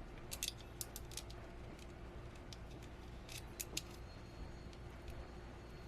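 Small metal mounting hardware clicking while a washer and nut are worked by hand onto a stiff bolt: a few light, sharp clicks in three short bunches.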